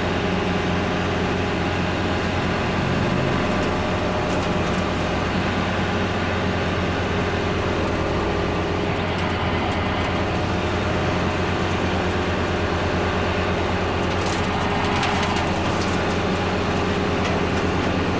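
Kubota L4701 tractor's four-cylinder diesel engine running steadily under way. Near the end there is a brief scratchy crackle.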